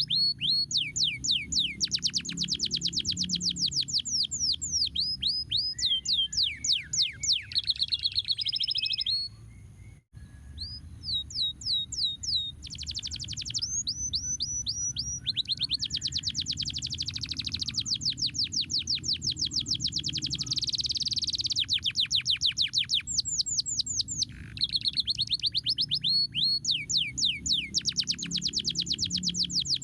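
Domestic canary singing: fast trills of rapidly repeated downward-sweeping notes, changing speed and pitch from phrase to phrase, with a short break about ten seconds in. A steady low hum runs underneath.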